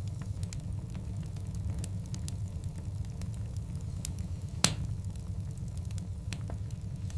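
Wood fire of large burning logs crackling, with many small irregular pops and one much louder pop about halfway through, over a steady low rumble.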